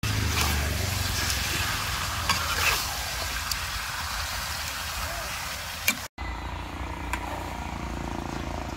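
Duck pieces sizzling in a steel wok while a metal spatula stirs and scrapes them, with a few sharp clicks of the spatula against the pan, over a low steady rumble.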